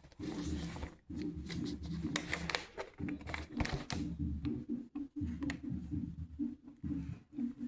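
School marching band practising in the street, heard at a distance and muffled: a low, rhythmic pulse of drums and low brass.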